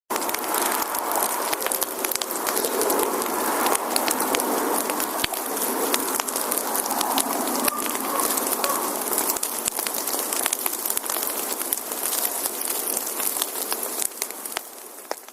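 Wood fire burning with dense, fast crackling and popping over a steady hiss; the sound fades out near the end.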